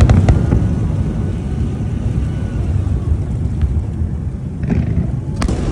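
Fireworks bursting over a continuous low rumble: a few small cracks right at the start, a faint one partway through, and one sharp bang near the end.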